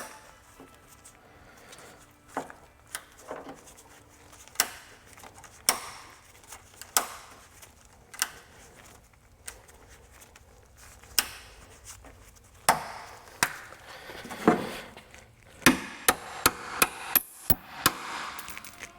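Sharp, irregular knocks and taps of hand tools on metal while working the cotter pins and hinge pins of a Humvee's hood. The taps come a second or more apart at first and in a quick run of strikes near the end.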